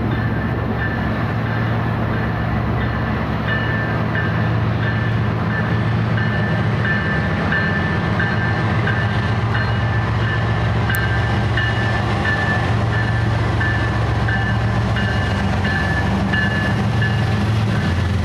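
A train passing close by: a steady low rumble, with a short high-pitched tone repeating over it.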